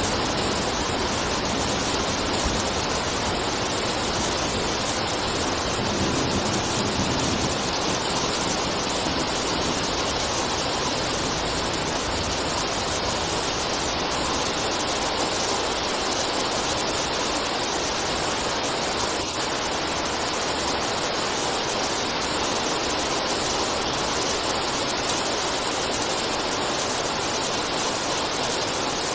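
Steady rain: an even, unbroken hiss with no single drops or gusts standing out.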